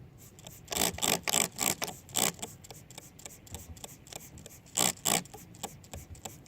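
Trigger spray bottle of Windex being pumped: a quick run of about seven short sprays about a second in, then two more near the end.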